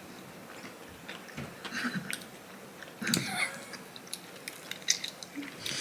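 A person chewing a mouthful of breaded ghost pepper chicken fries: scattered soft crunches and mouth clicks.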